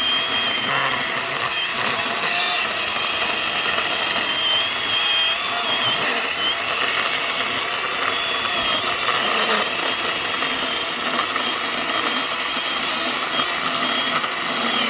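Kobalt 24V Max 6-inch battery mini chainsaw cutting through a small log, its electric motor whining steadily with the chain rasping through the wood, the pitch wavering slightly as it bites.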